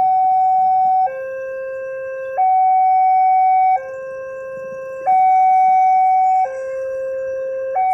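Railway level crossing warning alarm sounding a two-tone high-low signal: a higher tone and a lower tone alternate about every second and a quarter, the higher tone louder. It signals that a train is approaching and the crossing barriers are down or closing.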